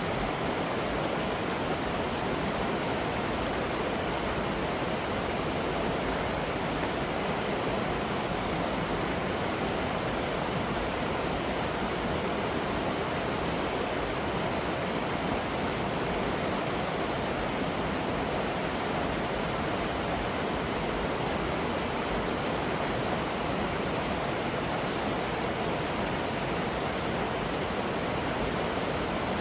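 Roadside waterfall rushing steadily, an even wash of falling water.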